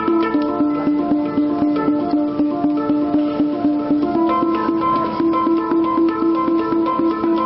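Hang drum played by hand, a quick run of ringing metallic notes over a sustained low note.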